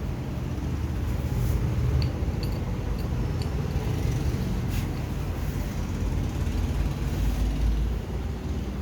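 Steady low engine rumble, with a few faint light clicks between about two and three and a half seconds in.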